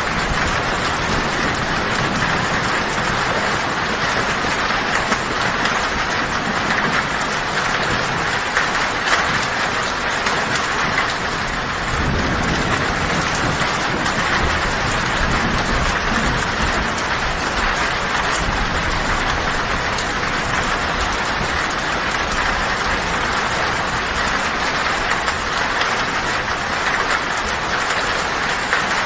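Heavy rain drumming steadily on a tin (corrugated metal) roof, with low thunder rumbling in from about twelve seconds in.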